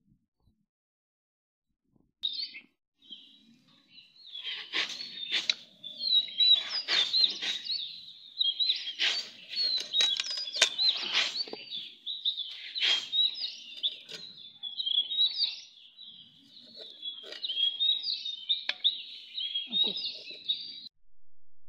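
Small birds chirping rapidly and continuously, starting about two seconds in, with a few sharp clicks mixed in.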